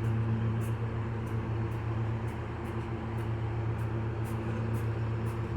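Nippon Sharyo diesel multiple unit idling at the station: a steady low diesel hum with a few held tones above it. Faint light ticks come about twice a second over the top.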